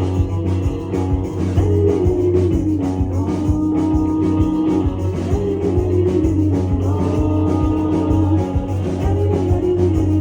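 Live rock band playing through a club PA, with sustained guitar or synth notes gliding between pitches over a steady heavy bass line and drums.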